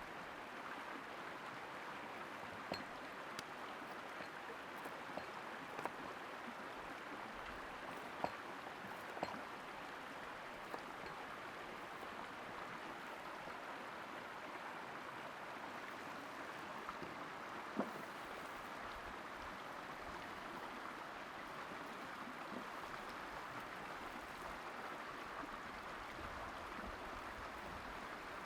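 Steady hissing rush with scattered sharp pops, a few of them louder about eight, nine and eighteen seconds in: a wood cooking fire crackling.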